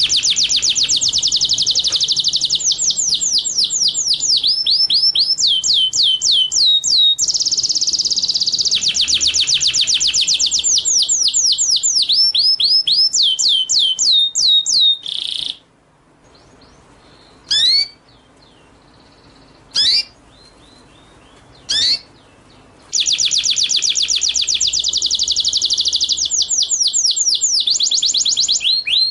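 Recorded song of a small songbird: fast trills of rapid falling notes in repeated phrases. About halfway through the trilling stops for several seconds, broken only by three sharp single calls, then the trilling resumes.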